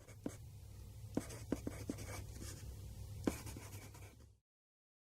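Ear pick scraping and scratching hard in an ear for ASMR ear cleaning: a run of sharp scratches and clicks over a low steady hum, cutting off suddenly about four seconds in.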